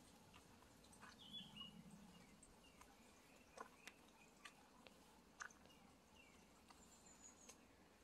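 Faint forest ambience: scattered distant bird chirps and short calls, with a high thin call near the end, over a soft steady hiss and a few light clicks.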